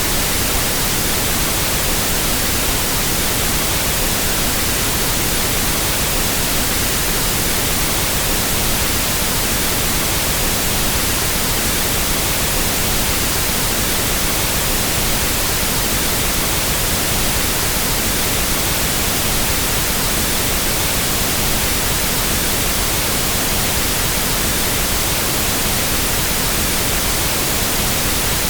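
Pink noise test signal for equalizing sound systems: a steady, unchanging hiss spread evenly across the whole frequency range.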